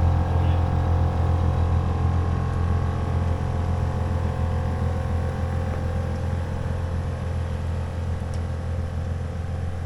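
A vehicle engine running with a steady low drone, slowly fading.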